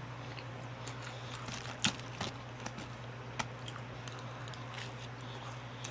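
Mukbang eating sounds: chewing and biting on chicken wings, heard as a scatter of short mouth clicks, the loudest a little under two seconds in, over a steady low hum.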